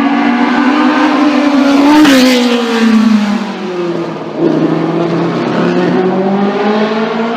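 Classic racing car engine at full throttle on the hill-climb course, loudest about two seconds in, then dropping in pitch as it goes past; a second engine note comes up about four and a half seconds in and climbs steadily.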